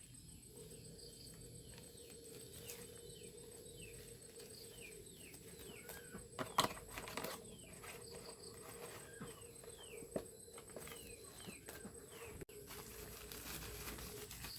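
Small birds chirping again and again, each chirp short and falling in pitch, over a faint steady hum. A few sharp knocks break in, the loudest about six and a half seconds in and another about ten seconds in.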